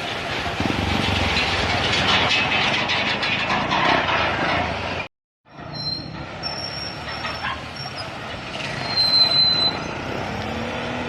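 A heavy truck passes close by with a loud, rattling rumble. After a short break, high thin squeals sound over the traffic noise, the loudest near the end, typical of a large vehicle's brakes squealing as it slows.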